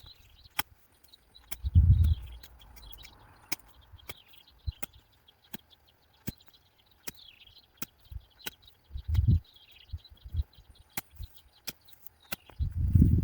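Digging in garden soil: a few dull thuds as the digging tool is driven into the ground, about two seconds in, twice around nine to ten seconds, and again at the end, with scattered small clicks. Birds chirp in the background.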